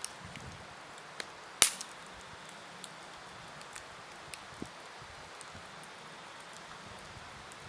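Campfire burning with a steady hiss and scattered crackles of burning wood, with one loud pop about a second and a half in.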